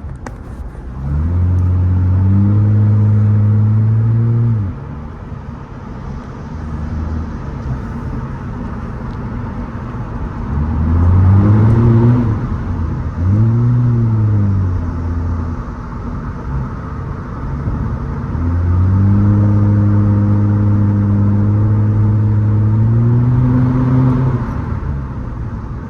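Straight-piped Nissan Altima exhaust revving under hard acceleration. There is a held pull about a second in, two short revs that rise and fall near the middle, and a long held pull in the second half, over steady road noise.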